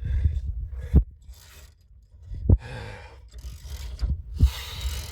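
Hand-tool work on bolts on a car: three sharp metal knocks among scraping and ratcheting, with heavy, straining breaths.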